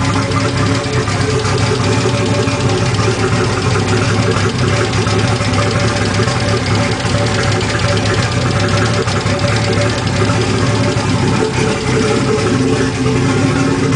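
Nissan RB25DET S2 turbocharged straight-six idling steadily on its first start-up, rough on the unchipped stock computer, with loud valvetrain ticking over the exhaust from an open 3-inch downpipe.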